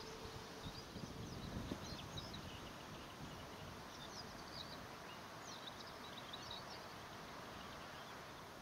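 Small birds chirping faintly in short high notes over a steady outdoor hiss, with a few low rumbles in the first two seconds.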